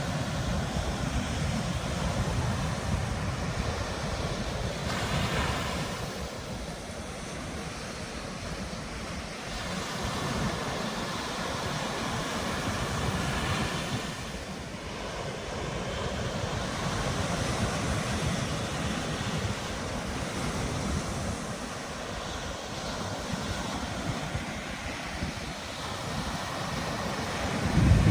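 Ocean surf washing onto a beach, swelling and easing every few seconds, with wind rumbling on the microphone. Near the end there is a brief, louder low thump.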